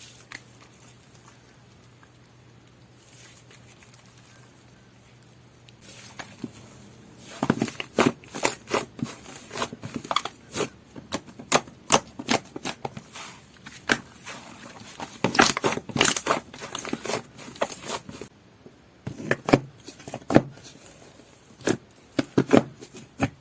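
Slime being played with by hand: quiet for several seconds, then a dense, irregular run of sticky clicks and pops as it is pressed and squeezed, with a short pause near the end.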